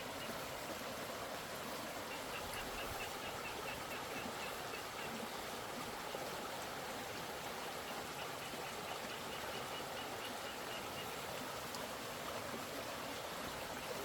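Steady rushing of water, even and unbroken. Over it, faint high chirps repeat about four times a second, in two runs of a few seconds each.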